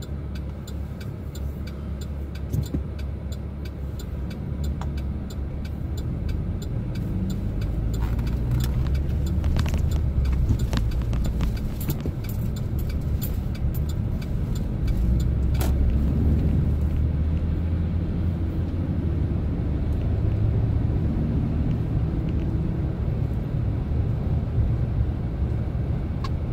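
Chevrolet Silverado pickup driving, heard from inside the cab: a steady low engine and road rumble that grows louder about a quarter of the way in as the truck gathers speed. Faint rapid ticks run through the first half.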